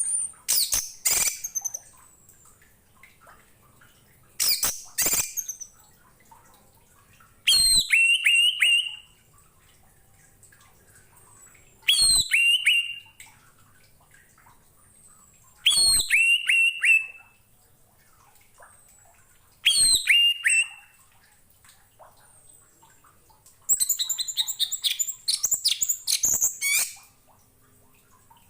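Orange-headed thrush (anis merah) singing: seven short, loud phrases about four seconds apart, each a fast run of sharp, very high notes and short whistled glides, with quiet pauses between phrases. The longest and busiest phrase comes near the end.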